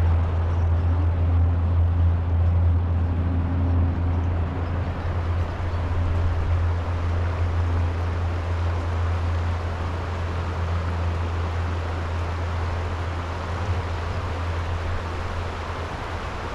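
A steady low mechanical hum with faint higher overtones, which slowly gets quieter.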